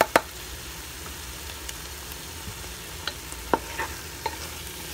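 Aloo methi sizzling in the pan while fresh coriander leaves are stirred in. A sharp knock comes just after the start, and a few short taps against the pan come about three seconds in.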